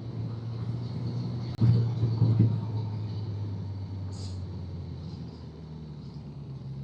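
Motorcycle engine running while riding, with a sudden surge in level about a second and a half in after a brief dip, then easing off and gradually quieter.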